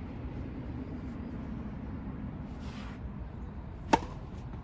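A single sharp tennis-ball impact about four seconds in, with a brief ring, over a steady low rumble.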